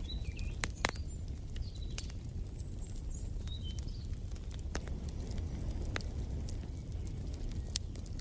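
Wood fire crackling: sharp, irregular pops over a steady low rumble, with small birds chirping in short high calls during the first few seconds.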